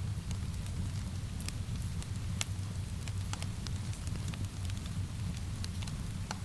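Wood fire crackling, with scattered sharp pops over a steady low rumble, mixed with an even hiss of rain.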